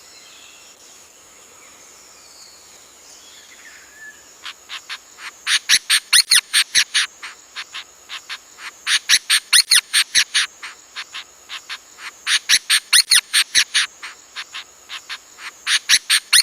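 Forest wildlife sounds: rapid, evenly spaced high chirps, about five or six a second, coming in four bouts that swell and fade, over a steady high-pitched whine.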